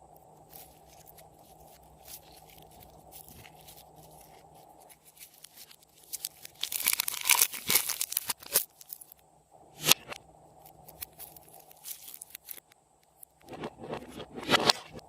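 Slime being worked by hand: sticky crackling and popping, densest from about six and a half to eight and a half seconds in, with a sharp snap near ten seconds and another burst of crackles near the end.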